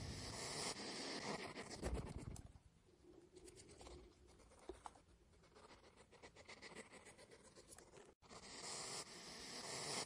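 Faint rustling and scratching of a European hedgehog foraging through leaf litter and ground plants, as many small irregular clicks, with a brief dropout about eight seconds in.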